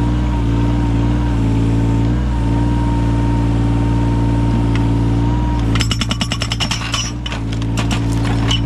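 Yanmar 017 mini excavator's diesel engine running steadily. A little under six seconds in comes a burst of rapid sharp cracks lasting about a second and a half, as a log splits under the excavator's wedge attachment.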